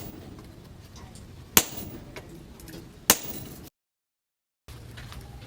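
Two sharp knocks about a second and a half apart over a low steady hiss. The sound cuts out to silence for about a second after the second knock.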